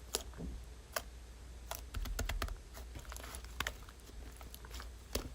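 Slime being handled, giving scattered soft clicks and small crackles at an irregular pace.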